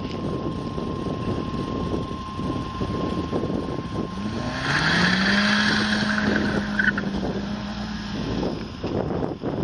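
Classic Mini's Rover K-series 1.8 VVC four-cylinder engine driving hard past the microphone. Its note climbs about four seconds in, holds steady and loudest for a few seconds, then fades. Wind buffets the microphone throughout.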